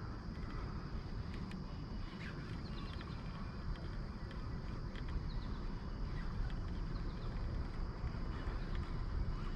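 Wind rumbling on the microphone outdoors on the water, with a few short bird chirps over it.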